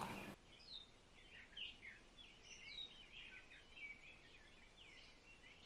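Faint chirping of small birds: many short, quick chirps scattered irregularly.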